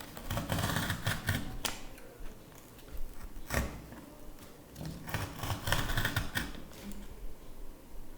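Bursts of rapid clicking and clattering from handling cardboard and wooden parts on a work table, in two main flurries with a single sharp click between them.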